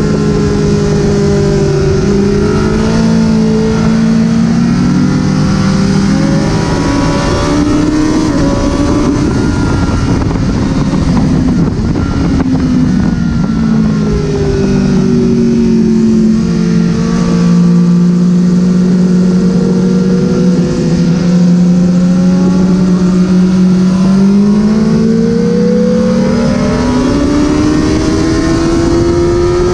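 Honda CBR1000RR's inline-four engine at speed on a race track, its pitch falling over the first several seconds, holding low through the middle, then climbing steadily as it revs up near the end, with constant wind and road noise underneath.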